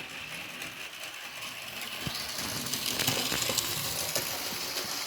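Model train running on the layout: a small motor whirring, with a run of sharp clicks and rattles, getting louder about two seconds in.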